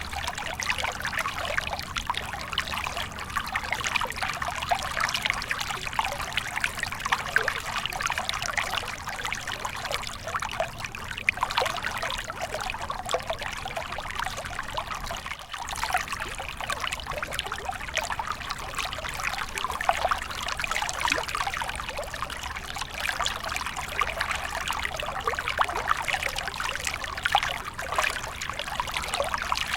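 A small stream flowing, water trickling and splashing steadily, with one brief drop in level about halfway through.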